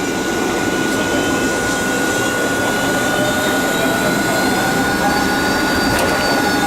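Jet engines of a Boeing 757-223 (Rolls-Royce RB211-535 turbofans) running for takeoff: a loud, steady rush of noise with a thin, high steady whine over it.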